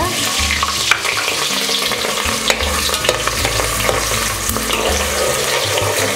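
Shallots sizzling and crackling in hot ghee and oil in an aluminium pressure cooker, with a metal slotted ladle scraping and clicking against the pot as they are stirred.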